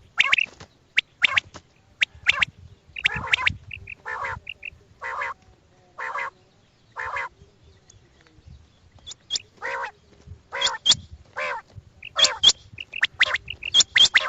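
Recorded quail calls used as a hunting lure. Harsh, nasal calls repeat about once a second, mixed with quick pairs of short high notes, with a short pause in the middle.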